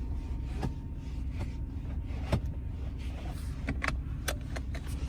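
Truck engine running with a steady low rumble, with a few scattered short clicks.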